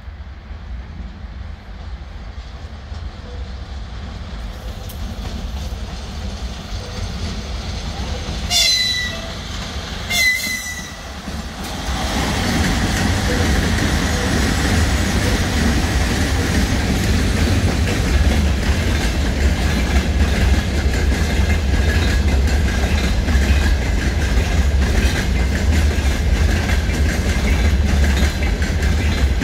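VL80S electric locomotives approaching with a freight train, with a growing rumble and two short horn blasts about eight and ten seconds in. The locomotives and then the long string of freight wagons roll past, with a loud steady rumble of wheels on rails and clatter over the rail joints.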